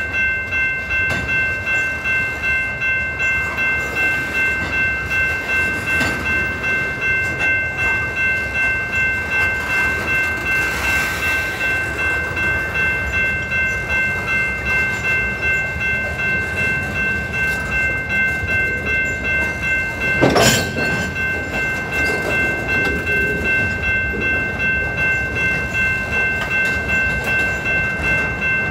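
Freight cars of a manifest train rolling past at speed, their wheels beating a steady clickety-clack about twice a second. A steady high ringing tone runs over it, and a single sharp bang comes about two-thirds of the way through.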